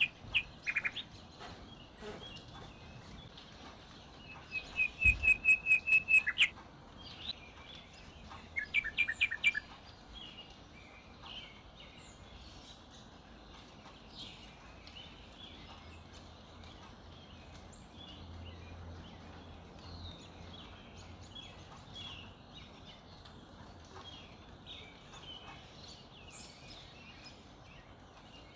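Several wild birds singing in a dawn chorus. About five seconds in, one bird gives a loud run of quick, repeated whistled notes. A shorter run of falling notes follows a few seconds later, then fainter chirps from many birds over a low background hiss.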